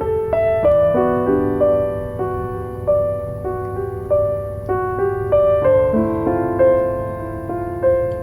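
Slow, gentle solo piano music: single notes and soft chords, each ringing and fading, over a faint steady low background noise.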